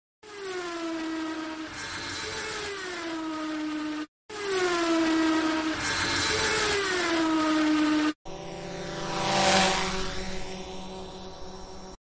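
Bugatti Centodieci's quad-turbo W16 engine in edited cuts with brief silences between them. Twice, a high engine note falls in pitch in two steps as the revs drop; then a lower, steadier engine note with a whoosh that swells and fades near the end, as of the car passing by.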